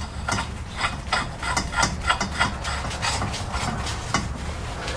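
Small metal parts clinking and tapping as a nut and spindle shaft are handled: many quick light clicks over a steady low hum.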